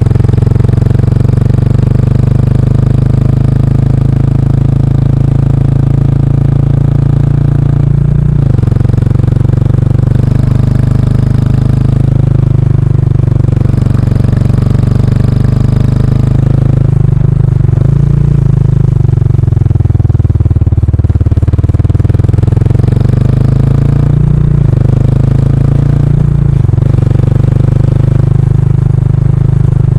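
Kawasaki Estrella's single-cylinder engine running under way through a stock muffler with its baffle removed. The engine note dips and climbs again several times: a third of the way in, around the middle, and again about three quarters through.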